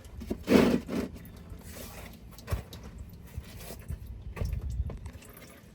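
Power steering fluid draining from disconnected pump lines, with a short rustling burst about half a second in and a few dull knocks of work on the car.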